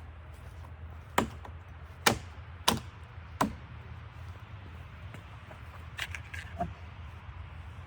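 Four sharp knocks, spaced roughly half a second to a second apart, followed a few seconds later by a cluster of lighter clicks, over a steady low rumble.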